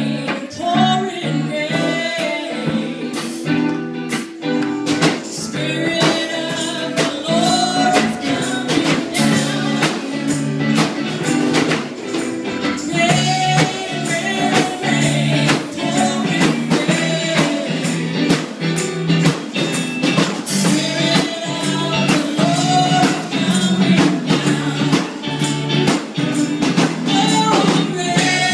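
Gospel song performed live: singing over instrumental accompaniment, with a tambourine keeping a steady beat.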